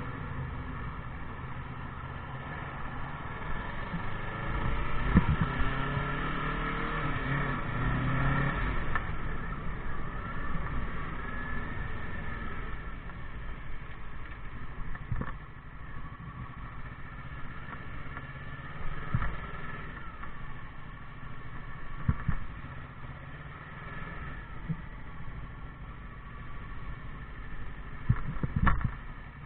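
Motorcycle engine running under way, working harder with rising pitch from about four to nine seconds in, then settling to a lower, steadier note. A few short thumps are scattered through.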